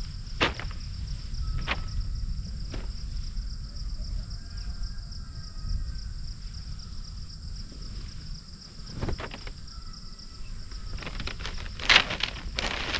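Steady high insect chorus over a low rumble, with faint bird whistles in the middle. Scattered knocks or crunches run through it, the loudest cluster near the end.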